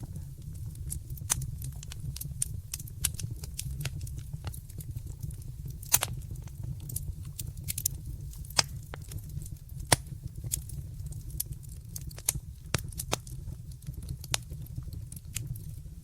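Wood fire crackling in a fireplace: irregular sharp pops and snaps over a steady low rumble of the flames, with a few louder pops, the loudest about six and ten seconds in.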